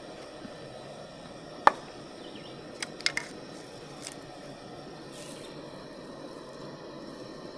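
A few sharp clicks or knocks over a steady background hiss: one loud click a couple of seconds in, then a quick run of three about a second later and a fainter one after.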